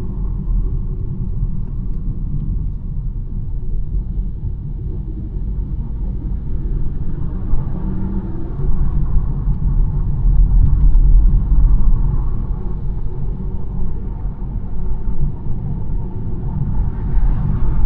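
BMW 1 Series on the move: a steady low rumble of engine and tyres on the road surface, swelling a little about ten seconds in.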